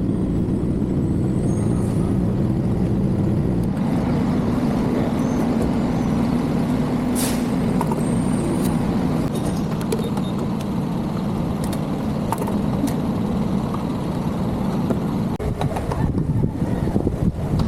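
Motorcycle engine running at a steady cruise, mixed with wind and road noise; the noise grows gustier and more uneven near the end.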